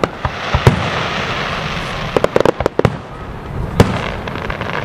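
Aerial fireworks shells bursting with sharp bangs over a hissing, crackling wash. A rapid string of bangs comes a little over two seconds in, and one more sharp bang near the end.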